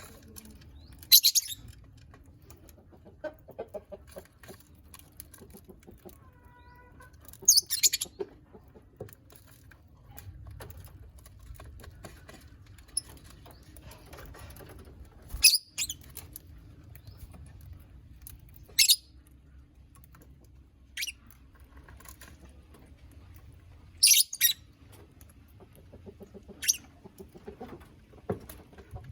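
A colony of lovebirds giving short, shrill chirps every few seconds over a low background rumble.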